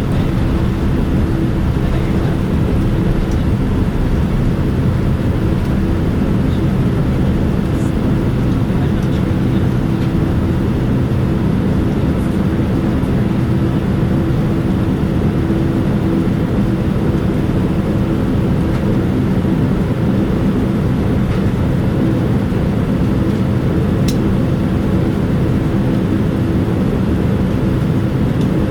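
Steady, loud cabin noise inside a Boeing 787-9 on the ground before takeoff: the engines' and air system's even hum heard through the fuselage, with a low drone and a steady mid-pitched tone.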